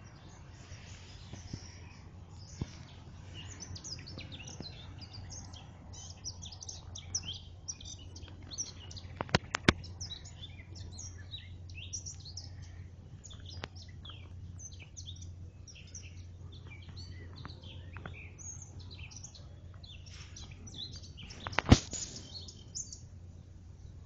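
Garden birds chirping and singing, many short high calls overlapping all along, over a low steady hum. Two sharp clicks come a little before the middle, and a louder knock comes near the end.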